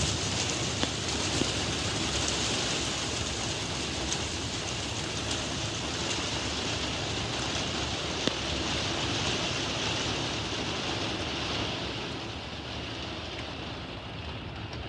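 Heavy thunderstorm rain pouring steadily, with a few sharp ticks of drops striking; it eases slightly near the end.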